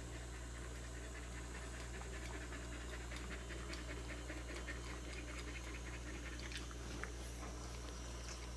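A cat eating wet food from a bowl: quick, steady lapping and smacking.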